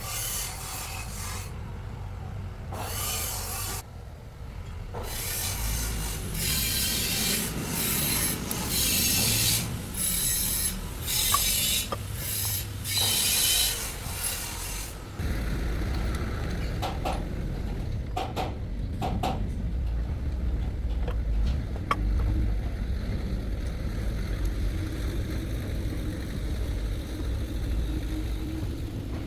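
Rasping strokes of a hand tool on a workpiece, about ten of them, each half a second to a second long. After that a steady low rumble runs on with a few sharp clicks.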